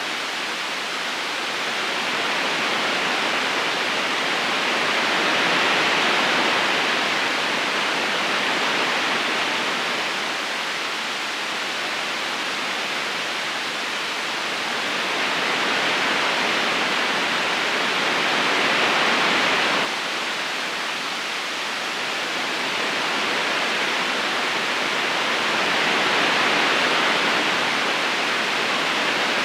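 River current rushing and splashing over stones in a steady hiss of water that swells and eases slowly every several seconds, dropping suddenly about two-thirds of the way through.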